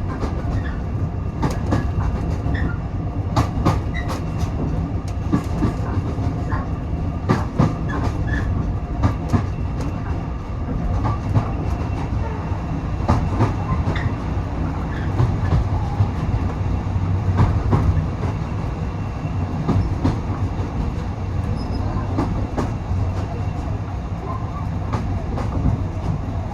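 Heritage railway carriage rolling along the track, heard on board: a steady low rumble of the running gear with frequent irregular clicks and knocks from the wheels on the rails.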